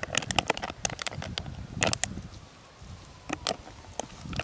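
Irregular sharp clicks and crackles, some louder than others, thinning out for a moment around the middle.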